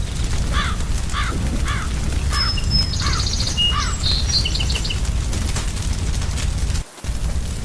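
Crackling fire with a steady low rumble, over which a bird calls six times in a row, about every half second, with smaller birds chirping and trilling alongside. The sound drops out for a moment near the end.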